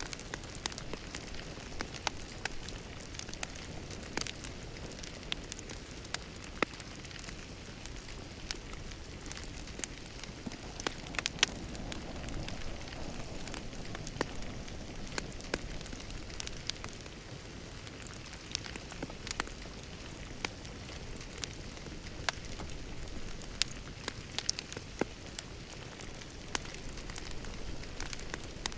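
Wood fire burning in a fireplace: a steady low hiss with irregular sharp crackles and pops, a few of them much louder than the rest.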